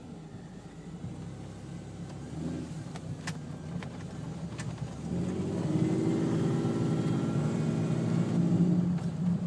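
Supercharged first-generation Toyota Tacoma engine running, heard from inside the cab, with a few light clicks a few seconds in. About five seconds in the engine gets louder and holds steady as the truck pulls away again.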